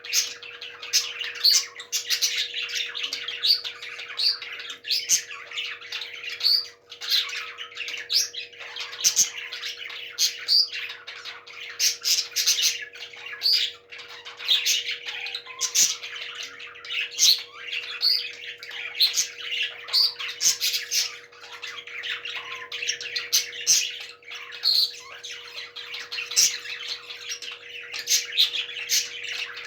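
A group of pet parrots chattering and squawking without pause, with many sharp, loud calls over a dense background of chirps. A steady hum runs underneath.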